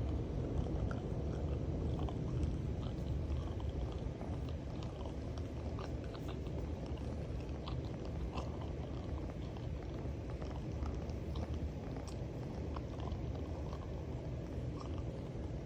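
Domestic cat purring: a steady low rumble, with faint scattered clicks over it.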